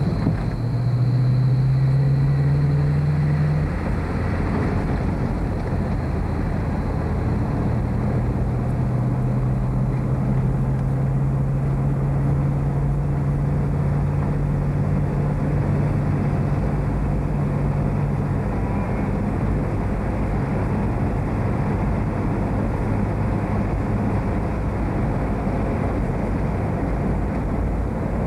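Car engine and road noise heard from inside a moving car, a steady low engine drone under a rushing haze. The engine note is loudest about one to four seconds in, then settles into a steady hum through the middle of the stretch.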